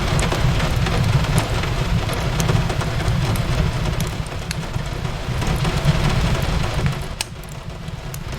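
Rain-and-fireplace ambience: a steady hiss of rain over a low rumble, with scattered sharp crackles and pops from a wood fire throughout.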